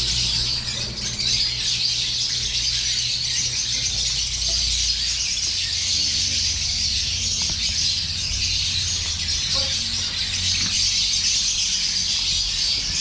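Dense, unbroken high-pitched chattering and screeching of a large number of caged lovebirds, with a low steady hum underneath.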